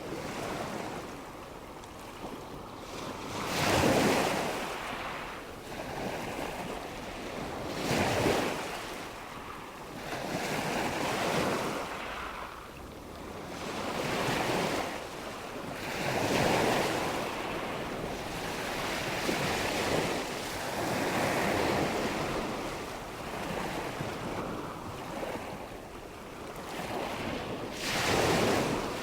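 Wind and water noise that swells and fades every few seconds, like surf washing in and drawing back, with the loudest swells about four, eight, sixteen and twenty-eight seconds in.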